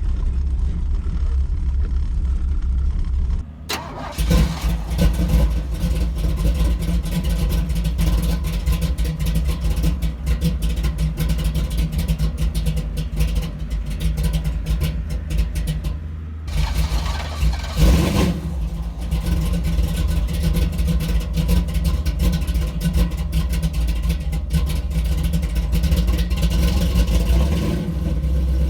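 1983 Chevy C10's cammed small-block V8 running cold on a carburettor with no choke, kept on the throttle at an uneven fast idle because it won't idle on its own yet. Sharp rev about two-thirds of the way through.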